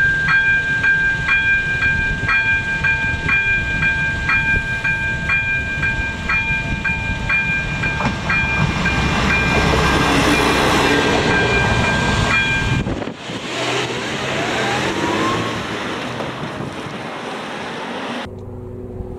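A ČD class 810 railbus passes over a level crossing, its diesel engine and wheels rumbling. Over it the crossing's AŽD ZV02 electronic bell rings steadily about twice a second. About 13 s in the bell stops and the rumble falls away sharply, leaving fainter train noise that cuts off abruptly near the end.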